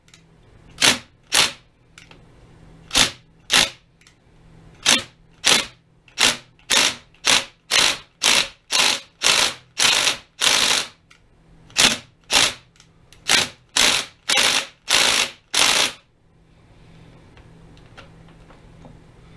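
Repeated sharp metal-on-metal knocks, first in pairs and then a steady run of about two a second, stopping about 16 seconds in. They come from work on the lathe's stuck power cross-feed screw, which is being forced round to free it.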